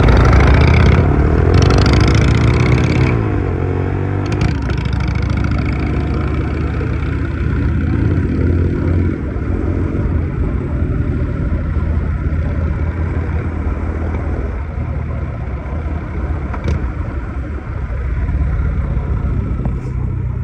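Indian Chief Vintage motorcycle's V-twin engine revved up and down in the first few seconds, then settling to a steady idle.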